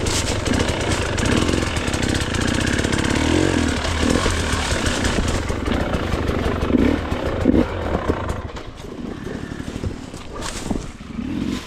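Dirt bike engine revving up and down under riding on a trail. It gets quieter, off the throttle, from about eight seconds in.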